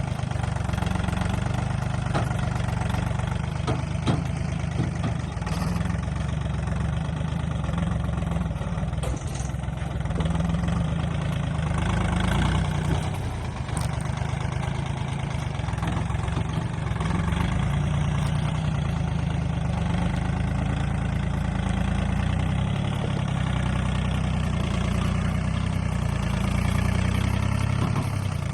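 A machine's motor or engine running steadily with a low hum, with a few light knocks now and then.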